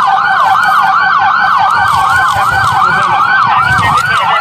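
Police car sirens in fast yelp mode, two or more overlapping, each sweeping up and down about five times a second.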